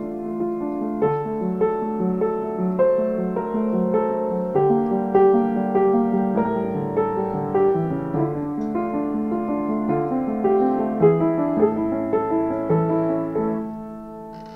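Piano music: chords and melody notes played at an even pace, fading out near the end.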